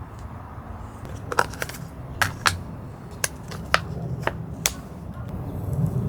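A run of about nine sharp clicks and taps, irregularly spaced over a few seconds, over a low steady rumble.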